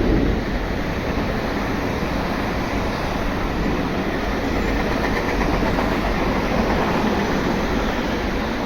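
A train passing through a station without stopping: a steady rumble of wheels on rails, loudest at the start and easing slightly near the end.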